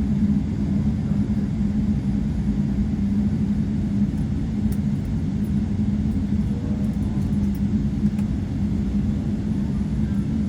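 Steady low rumble of a Boeing 777-200 airliner heard from inside the cabin, with a constant drone.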